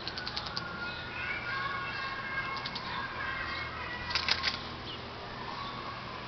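Small birds chirping, with short, rapid, clicking trills; the loudest trill comes a little past the middle.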